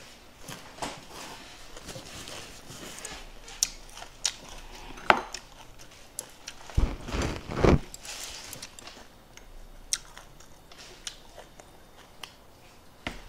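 Close-miked chewing and eating, with scattered light clicks and taps of chopsticks and a bowl, and one louder low thump about seven seconds in.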